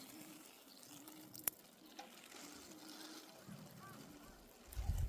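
Faint trickling water, with a single sharp click about a second and a half in and a low rumble starting near the end.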